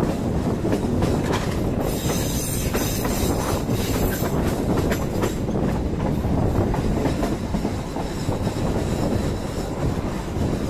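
Passenger train running on the rails, heard from on board: a steady rumble with wheels clacking over rail joints.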